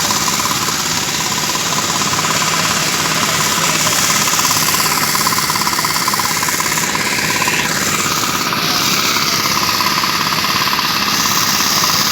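Construction machinery engine running steadily under load with a rapid knocking rattle.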